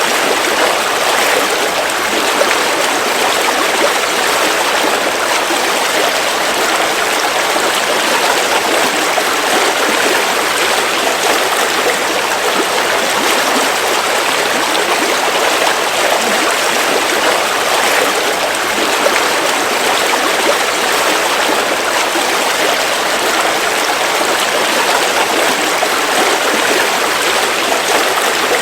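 River water flowing and rushing over rocks in a steady, unbroken wash.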